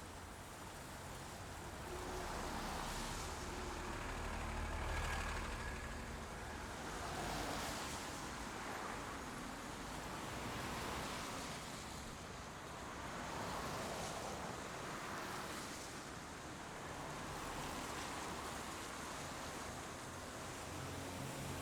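Steady rain noise that swells and eases every few seconds, with a low rumble underneath.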